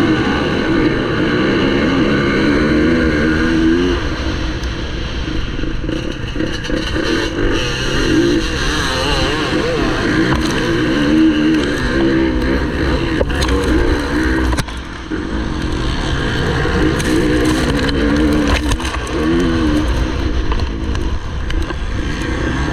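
MX1 motocross bike engines revving hard, the pitch repeatedly climbing and dropping through the gears over a continuous low rumble.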